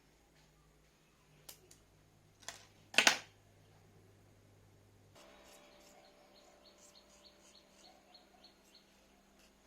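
A sharp knock about three seconds in, after two lighter clicks. Then, from about halfway, a small bird chirps in a quick run of short, high notes, about three a second.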